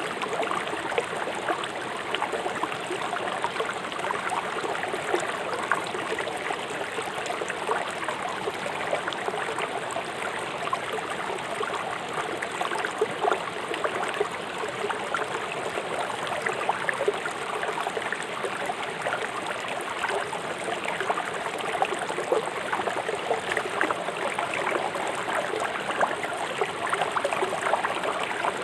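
A fast-flowing river rushing and splashing over stones, as a steady run of water with many fine splashes.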